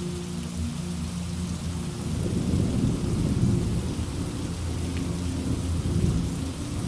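Steady rainfall with a low rolling rumble of thunder that builds about two seconds in and fades near the end.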